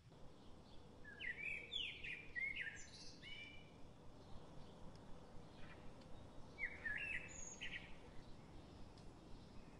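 A small songbird singing: a run of quick chirping notes with falling sweeps about a second in, then a shorter phrase a few seconds later, over a faint steady hiss of outdoor ambience.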